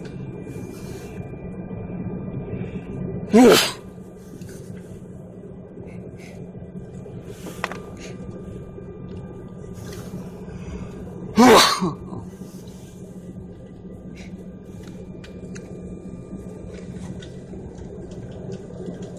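A person sneezes loudly twice, about eight seconds apart, over a steady low hum from an aircraft cabin.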